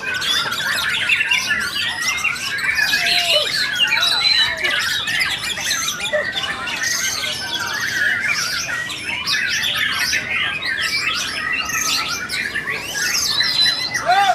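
Several caged white-rumped shamas (murai batu) singing at once in a competition, a dense, unbroken tangle of overlapping whistles, trills, chirps and harsh squawks.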